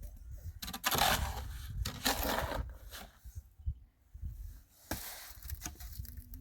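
Scraping and crunching handling noises, with two longer rasping bursts about one and two seconds in and scattered short knocks between them.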